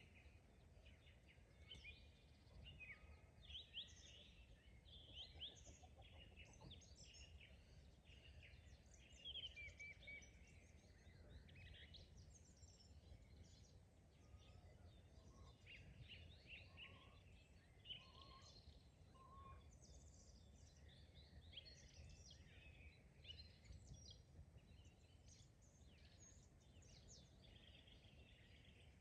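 Faint chorus of several songbirds chirping and trilling, over a steady low rumble of background noise.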